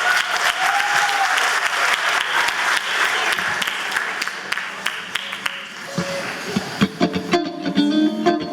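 Audience applauding, the clapping fading out over about five seconds; then music of plucked notes begins about seven seconds in.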